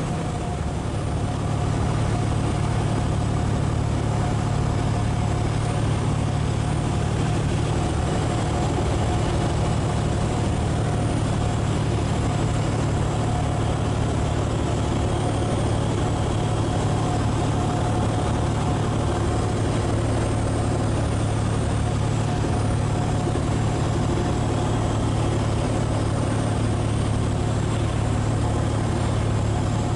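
Cessna 172's single piston engine and propeller droning steadily in flight.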